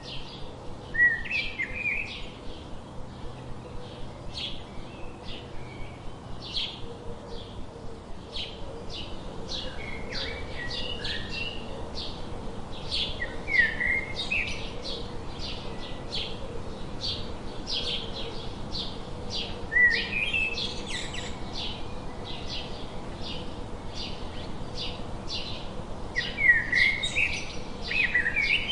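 Songbirds calling, a steady run of short high chips, broken about five times by a louder, lower slurred phrase.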